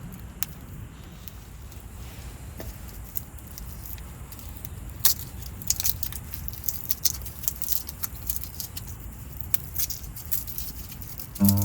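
Irregular light ticking and crackling over a steady low rumble, growing busier and louder from about five seconds in. Acoustic guitar music comes in right at the end.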